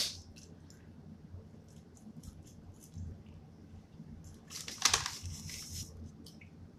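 Person eating a burger and fries close to the microphone: soft chewing and scattered mouth clicks, with a short louder rustle about five seconds in.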